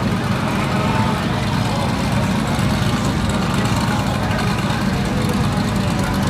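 Car engine idling steadily with a low rumble and no revving, with people's voices in the background.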